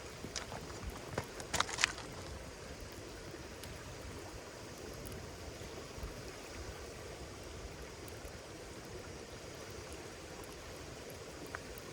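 Wood campfire crackling: a cluster of sharp pops and snaps in the first two seconds, then a steady hiss of the burning fire with one more snap near the end.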